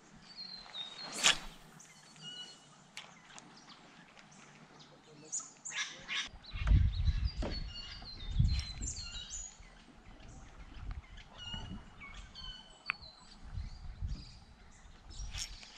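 Birds chirping and calling from the bush, many short high chirps. There is a sharp click about a second in, and from about six seconds on, low knocks and rumbles.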